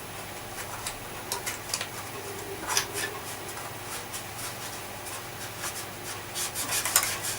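Scattered small scrapes and clicks as hard, caked dirt is picked and scraped out of a 1973 Hoover Junior vacuum cleaner by hand.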